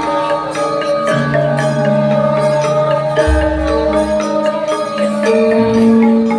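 Javanese gamelan ensemble playing: bronze metallophones and gongs ringing in overlapping sustained notes, with a deep gong stroke about three seconds in.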